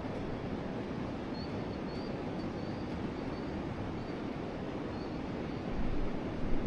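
Forest river flowing, a steady rush of water, with a few faint high bird chirps. Shortly before the end, low gusts of wind buffet the microphone.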